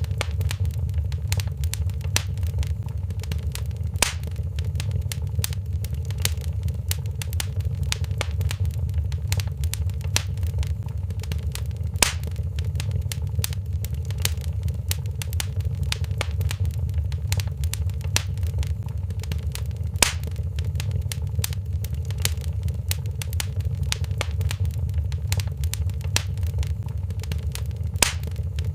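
Wood fire crackling in a fireplace: many small snaps and pops over a steady low rumble, with a louder pop about every eight seconds.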